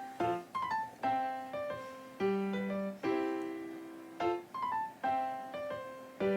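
Background piano music: a slow melody and chords, each note struck and decaying, with new notes every second or so.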